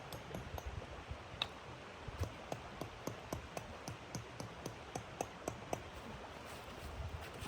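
Wood fire crackling in a stove, with sharp irregular pops a few times a second over a steady low rush of wind.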